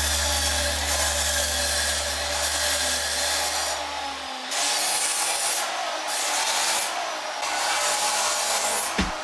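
Shop power tool working on exhaust tubing, a steady rough rasping that breaks off briefly a few times in the middle.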